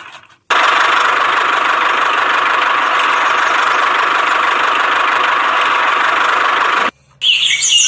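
A small motor running steadily at constant speed, a whirring hum that starts abruptly and cuts off abruptly near the end.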